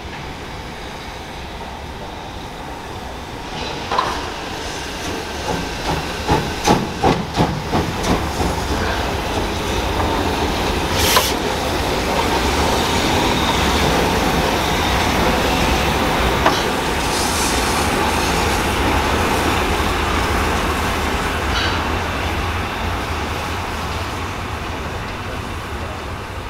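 A train passing by. The noise builds from about four seconds in, then comes a quick run of wheel clacks over rail joints, a sharp click, and a steady rolling rumble that slowly fades near the end.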